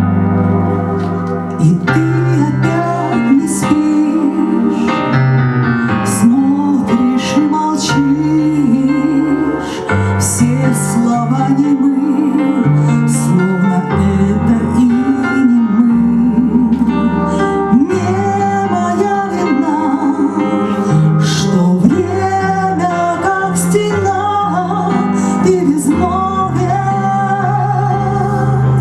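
A woman singing a pop ballad solo over instrumental accompaniment, her voice sliding and wavering through sustained sung phrases above held bass and keyboard chords.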